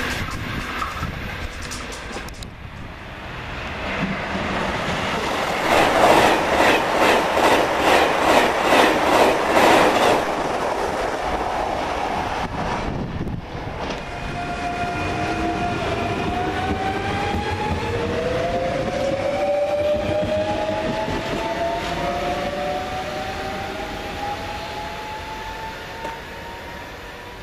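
Electric trains on a line through a small station. A passing train rumbles with a pulsing wheel clatter over the rail joints, about two beats a second. Later an approaching electric multiple-unit train gives out several whining tones from its motors that climb slowly in pitch over its rolling noise.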